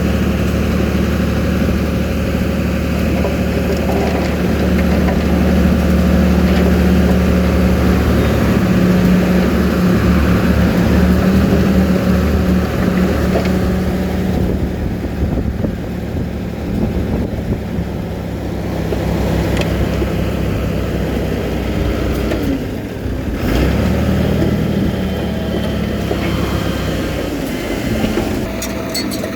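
Komatsu D31P crawler bulldozer's diesel engine running steadily under working load. Its pitch shifts partway through and it dips briefly about two-thirds of the way in, with a few sharp clanks near the end.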